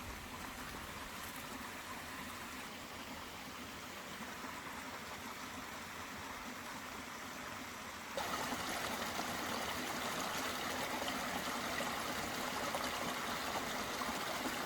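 Steady running water, like a stream, becoming louder and brighter about eight seconds in.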